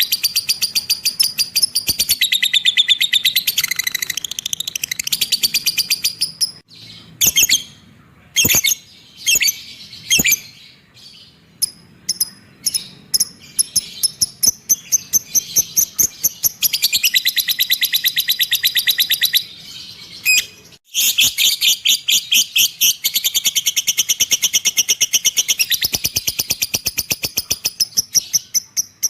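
Cage bird calling in long, rapid, high-pitched trills, broken for several seconds in the middle by separate sharp chirps before the fast trilling resumes.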